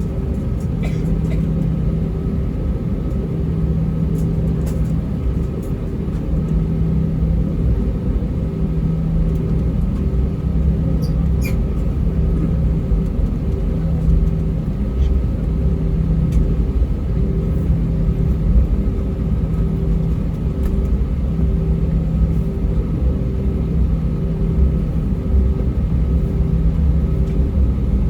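Cabin noise of an Airbus A320-232 taxiing, heard from a window seat near the front: a steady low rumble with the engines at idle and a hum that pulses about once a second.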